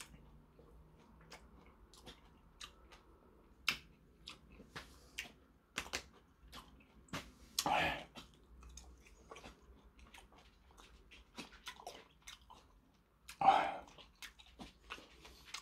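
A person chewing a mouthful of food close to the microphone, with scattered small wet mouth clicks, and two louder breaths, about eight and thirteen seconds in.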